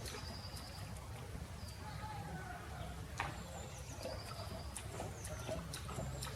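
Several birds chirping and calling: short high trills that recur every few seconds, and lower gliding calls, over a steady low rumble.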